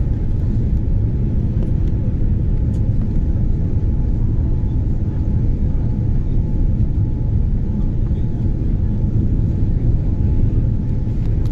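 Cabin noise inside a Boeing 787 airliner: a steady low rumble of engines and airflow, with a faint steady whine over it.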